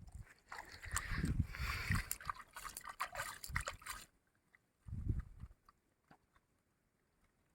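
Raw chicken pieces being washed by hand in a vessel of turmeric water: water sloshing and splashing with small clicks, busiest for the first four seconds, then a short thump about five seconds in before it goes quiet.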